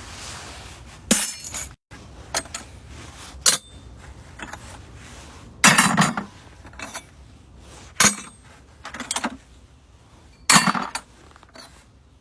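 Pieces of scrap brass tossed one at a time into a bucket, clinking sharply at irregular intervals of roughly a second.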